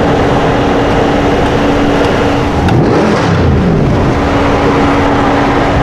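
A car engine running loudly, holding a steady note, with its pitch sliding down and back up for about a second near the middle as the engine revs.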